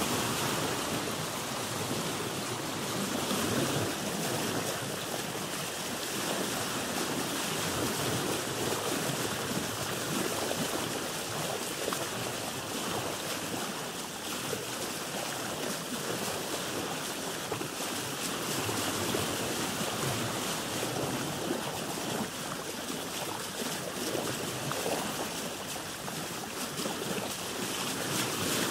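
Sea water lapping and splashing against a boat's hull, a steady wash with gentle swells in loudness.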